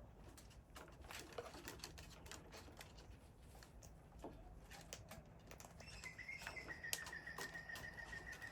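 Faint, irregular clicks and cracks of cockatoos cracking corn kernels in their beaks. About six seconds in, a steady high whistling tone starts and holds.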